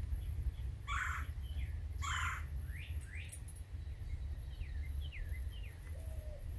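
Wild birds calling: two loud, harsh calls about a second apart, followed by thinner, pitch-bending chirps from other birds, over a steady low rumble.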